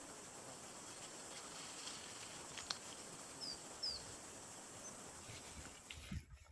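Steady outdoor background hiss with two short, high, downward-gliding bird chirps about three and a half seconds in, after a single sharp click; near the end the hiss drops away and a low thud comes in.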